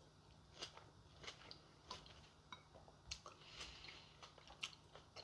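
A person chewing a mouthful of cucumber and tomato salad: irregular soft, wet clicks and smacks from the mouth.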